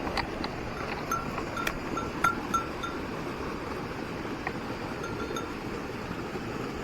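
A small bell jingling in short clear rings, about three a second early on and a few more later, over the steady rush of a mountain stream.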